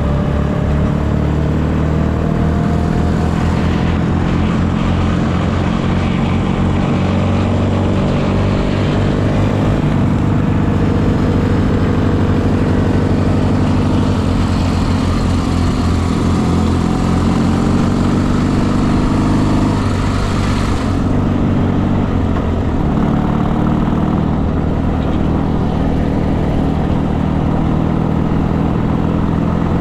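Motorcycle engine running under way, its pitch climbing over the first several seconds as it speeds up, then holding and shifting, with a rushing hiss of road and air noise over it.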